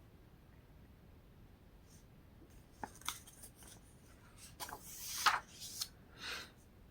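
Glossy catalog pages being handled and turned: a few light clicks, then rustling and a louder swish of paper in the second half.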